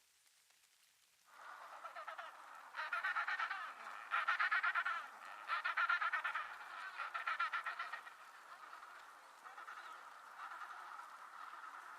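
Penguins calling: a run of loud, rapidly pulsing calls in about four bouts of roughly a second each, then softer calling.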